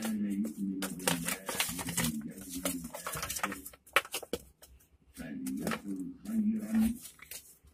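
A person talking in a small room, in two stretches with a pause between them; the words are not clear enough to make out.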